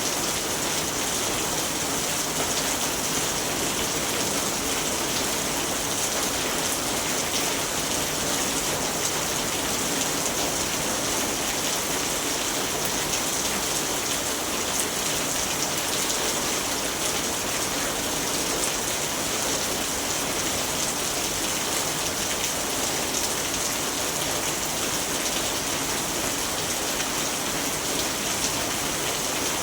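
Steady rainfall, an even hiss of many small drops with fine patter, holding constant throughout.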